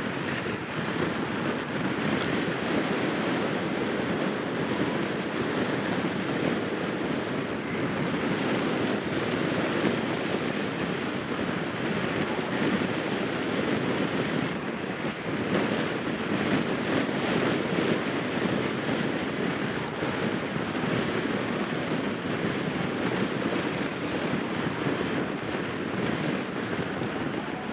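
Strong wind blowing across the microphone: a steady rush of noise that swells and eases slightly, with no horn heard over it.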